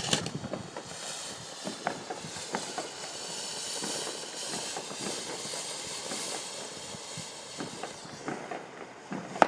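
Firework burning with a steady hiss, dotted with many small crackles and pops.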